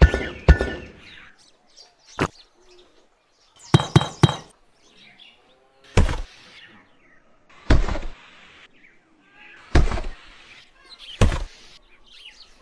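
A series of about ten sharp taps and thuds, spaced a second or two apart, as small building pieces are set down and pressed in place on a miniature build; a few are followed by a short hiss. Faint bird chirps sound between them.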